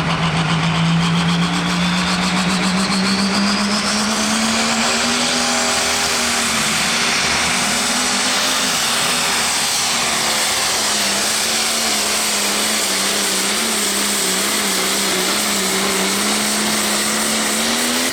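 Outlaw pro stock pulling tractor's diesel engine running at high revs through a pull. A high whine climbs over the first five seconds, and the engine note rises, then wavers up and down as it works.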